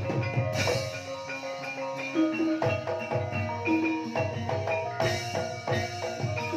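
Banyumasan gamelan ensemble playing a gending in ebeg style: many ringing notes struck on mallet-played keyed instruments over repeated low drum strokes, at a steady moderate loudness.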